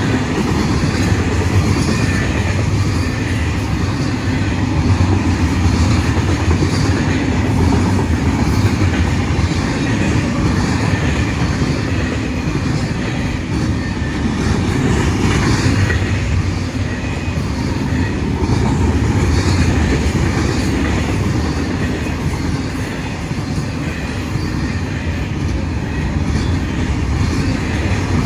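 Freight train rolling past at speed: a steady rumble of rail cars with the wheels clicking over the rail joints.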